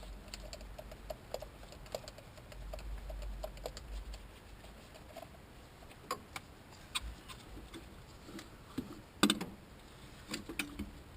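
Scattered light clicks and clinks of hand tools and small engine parts being handled, with a sharper clack about nine seconds in.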